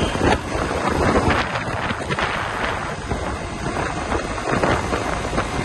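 Wind buffeting the microphone on a moving Suzuki GSX-R150 motorcycle, a steady rush with gusts, with the bike's single-cylinder engine running underneath.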